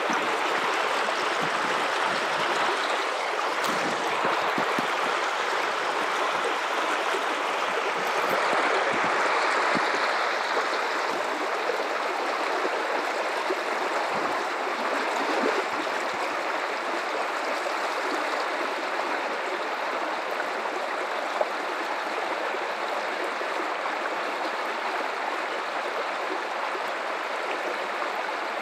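Guadalupe River water running steadily over rocks, an even rushing with small gurgles and splashes, a little louder about eight to eleven seconds in.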